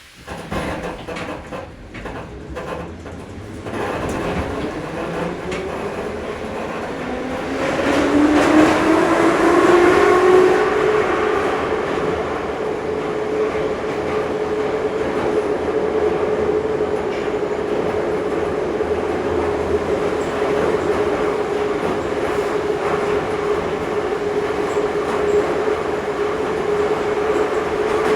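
Ezh3 metro train pulling away and accelerating: a few clunks at first, then the traction motor whine rises in pitch for several seconds and settles into a steady tone over the running rumble of the wheels on the rails.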